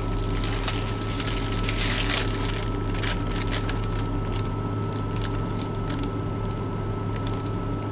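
Plastic bag crinkling and rustling in irregular bursts as bagels are handled, over a steady low hum.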